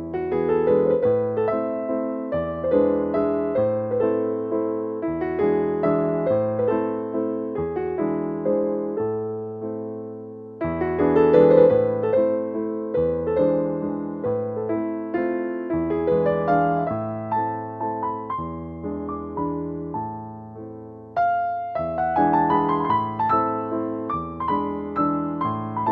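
Background piano music: a gentle, steady piano piece of repeated arpeggiated phrases, with a new phrase starting louder about ten seconds in and again about twenty seconds in.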